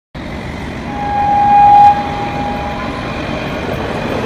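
Train sound effect: a train running with a rumble, and a single long steady whistle note over it.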